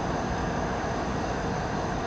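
Diesel freight locomotive approaching, its engine running with a steady rumble.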